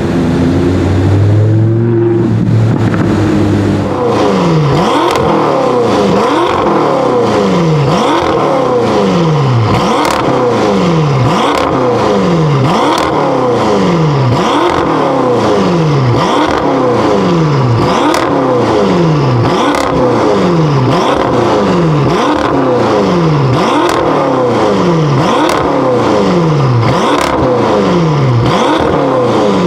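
BMW M5 F10's twin-turbo V8 with an Akrapovic exhaust, revved while standing. From about four seconds in it is blipped over and over, roughly once every second and a half, each rev rising and then falling quickly back.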